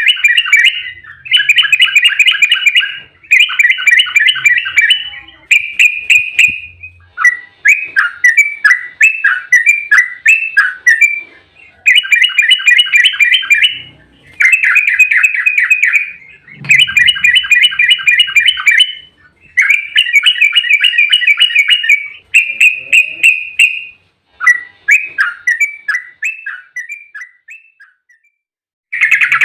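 Yellow-vented bulbul (trucuk) singing its rapid bubbling 'ropel' song: fast runs of notes in phrases of one to two seconds, repeated over and over with brief pauses between them. A song of this kind is used as a lure to provoke other bulbuls into answering.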